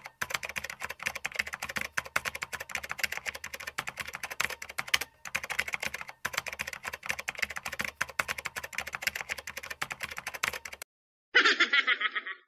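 Rapid keyboard-typing sound effect with fast clicking keystrokes, pausing briefly twice around the middle. It stops about a second before the end, and a short, different pitched sound effect follows.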